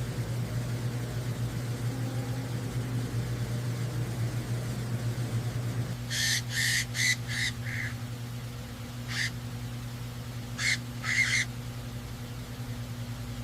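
Bird calls: a quick run of five short, harsh calls, then a single one, then two more, over a steady low hum.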